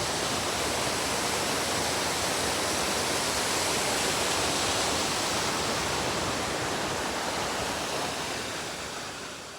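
A large waterfall's steady rush of falling water, fading out near the end.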